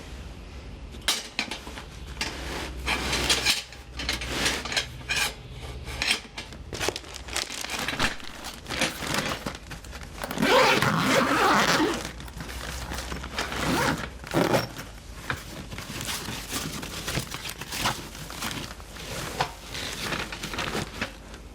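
Metal fire-pit parts being handled and packed into their storage case: a string of irregular clinks and knocks with fabric rustling, and a longer, louder rustle about halfway through.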